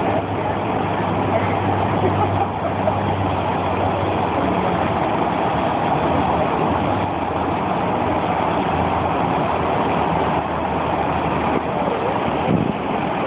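A motor vehicle engine running with a steady low hum under a dense, even rushing noise; the hum fades about halfway through while the rushing noise carries on.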